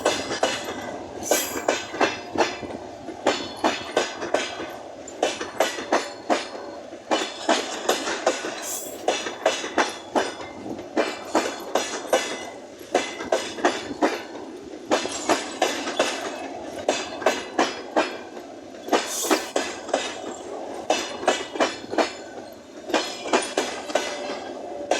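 Passenger train wheels clattering over rail joints: sharp clicks coming in quick clusters again and again over a steady rolling rumble.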